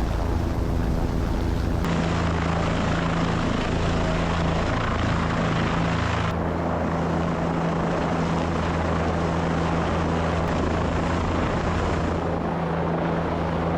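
Helicopter engine and rotor running steadily at flight power just after lift-off, with abrupt changes in tone about two seconds and six seconds in.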